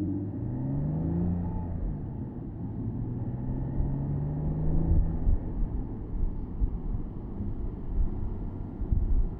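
Porsche Boxster S 987.2's flat-six engine pulling with its pitch rising, then rising again more slowly until about halfway through. After that it settles into a low rumble of engine, road and wind noise with a few low thumps, heard from the open-top cabin.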